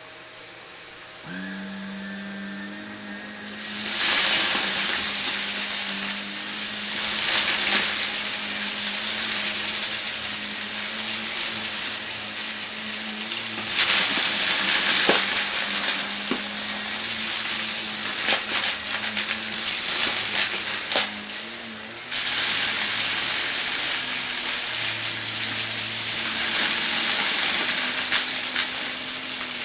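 A vacuum cleaner's motor comes on about a second in. From about four seconds it sucks up crunchy dry debris, making a loud, dense crackling hiss that drops off briefly a little past twenty seconds.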